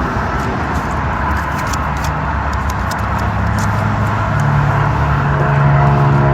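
Vehicle engine running with a steady low rumble. About four and a half seconds in, a louder droning hum joins it and holds for about two seconds.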